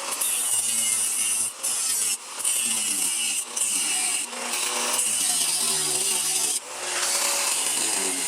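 Electric power tool cutting or grinding a steel reinforcement panel in a series of short passes, a harsh rasp that breaks off briefly between passes while the motor's hum sags under load and picks up again.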